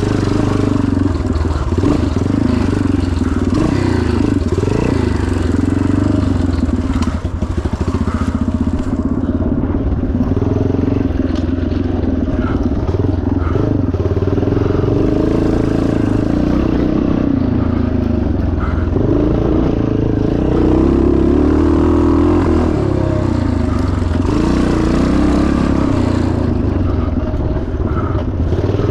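Yamaha TT500's four-stroke single-cylinder engine running hard under load off-road, its pitch rising and falling repeatedly as the throttle is worked, with knocks and rattles from the bike over rough ground.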